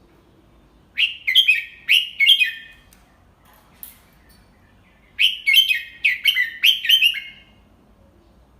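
Red-whiskered bulbul singing two short phrases of quick, clear notes, the second about four seconds after the first.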